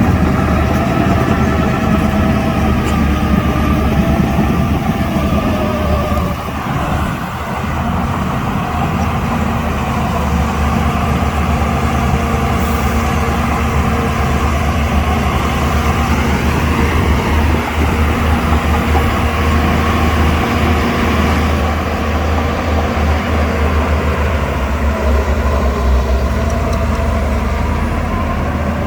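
Shantui DH17 bulldozer's diesel engine running steadily, with a wavering higher whine over the engine drone; the sound dips briefly about six seconds in.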